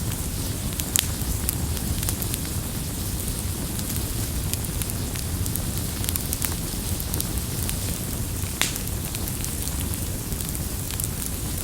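Campfire burning: scattered sharp crackles and pops of burning wood over a steady low rumble of the flames.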